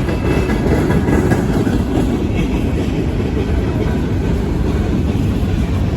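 Freight cars of a CSX manifest train rolling past, a steady rumble of steel wheels on the rails.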